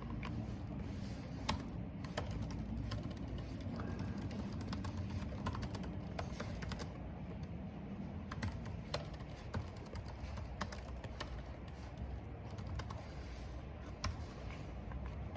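Computer keyboard typing in quick, irregular key clicks, over a steady low rumble of wind.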